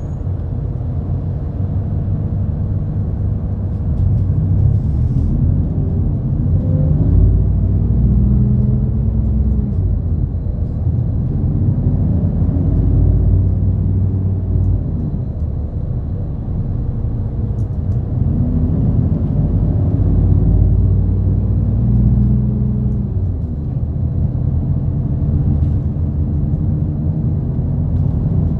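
Route bus engine and road noise heard from inside the passenger cabin while the bus is driving. The engine pitch rises and falls in slow sweeps a few times as the bus speeds up and eases off.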